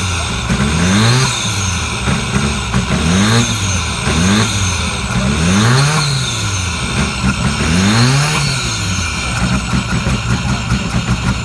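Rally car engine revved in repeated throttle blips, the pitch rising and falling each time. Near the end it settles to a lumpy idle.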